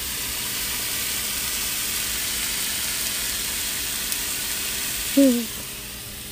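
Meat sizzling in a frying pan, a steady hiss that eases off near the end. A brief falling vocal sound about five seconds in.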